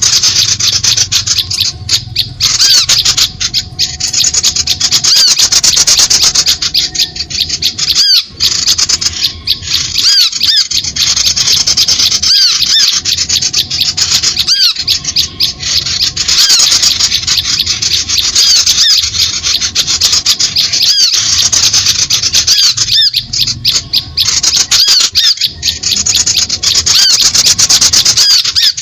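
Bird-lure recording of small songbirds calling: dense, rapid, high-pitched chirps and squawks repeating without pause, played loud.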